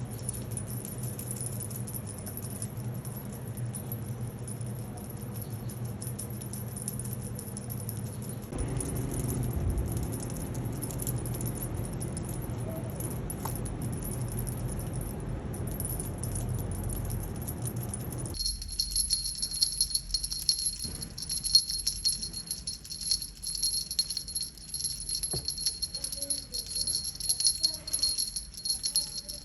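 Continuous jingling and rattling that changes character abruptly twice, about eight and eighteen seconds in, becoming a dense, high, shimmering jingle for the last third.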